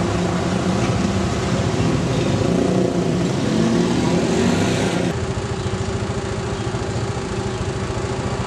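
A small 110cc motorcycle engine running in town traffic. Its pitch shifts during the first half, and about five seconds in the sound changes abruptly to a steadier, even running note.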